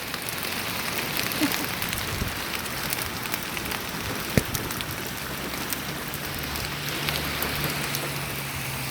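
Large hailstones and rain falling in a storm: a steady hiss with many sharp ticks of stones striking, and one louder crack about four seconds in.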